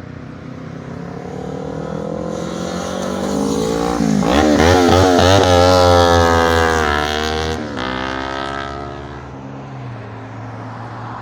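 Ford GT40's engine accelerating hard as it drives past: the note climbs steadily, breaks off with an upshift about three quarters of the way through, then falls away as the car recedes.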